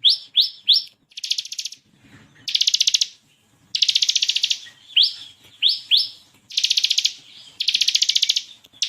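Bar-winged prinia (ciblek kristal) singing, with short sharp rising 'shot' notes in runs of two or three alternating with rapid buzzy rattling trills.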